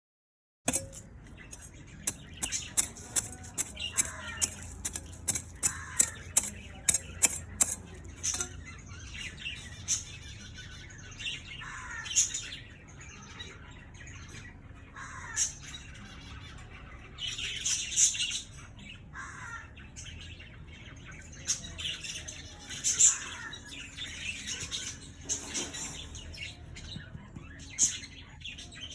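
Birds chirping and squawking, starting abruptly a moment in: a dense run of sharp, high chirps for several seconds, then scattered short falling calls.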